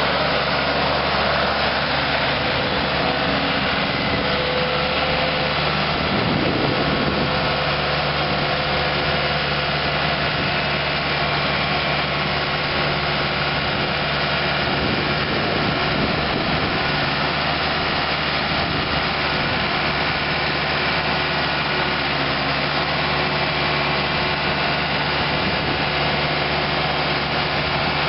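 Four-cylinder diesel engine of a 2000 Case 1845C skid steer running steadily.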